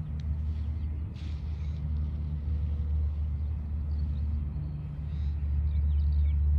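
Low, steady rumble of a distant aircraft engine as a plane climbs away after take-off.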